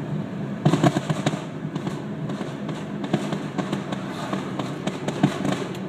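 Fireworks crackling: a dense flurry of sharp pops starts under a second in, then continues as scattered crackles over a steady low background rumble.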